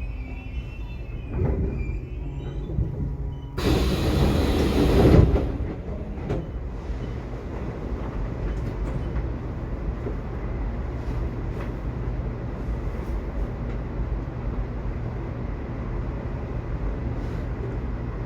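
Subway train running with a steady low rumble, a high wheel squeal dying away at the start. About four seconds in comes a loud burst of rushing noise lasting under two seconds, then the rumble carries on with a few faint clicks.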